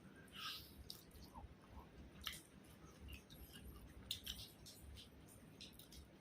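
Faint eating sounds: chewing, with scattered small clicks and wet smacks.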